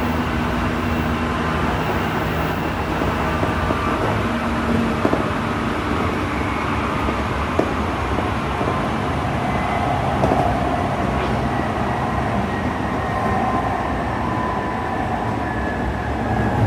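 Running noise inside a Tsukuba Express TX-2000 series passenger car: a steady rumble of the train moving along the track.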